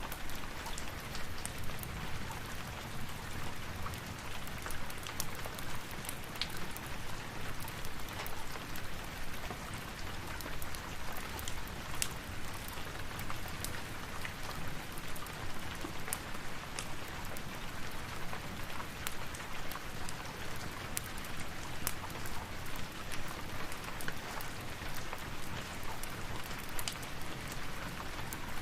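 Steady rain falling, an even hiss with scattered sharp drip-like ticks and a soft low rumble underneath.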